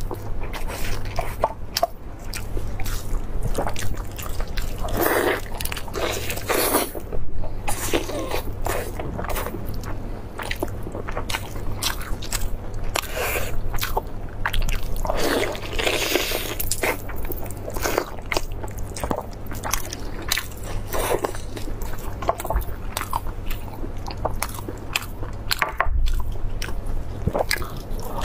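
Close-miked biting and chewing of soft, braised beef rib meat: wet, sticky mouth sounds with many small clicks, going on throughout. A steady low hum runs underneath.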